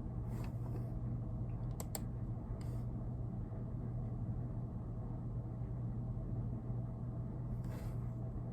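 A few scattered computer keyboard clicks, two sharp ones about two seconds in, over a steady low hum.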